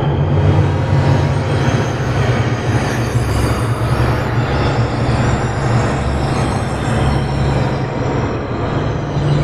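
Steady, dense rumbling noise with a strong low drone and faint high whistling tones underneath, like a train rolling on rails, as part of an electronic sound-effects soundscape.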